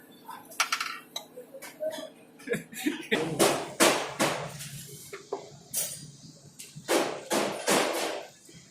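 Irregular metallic clanks and knocks of tools and metal parts being handled while an engine is fitted to a tandem roller. The clanks grow louder and closer together from about three seconds in.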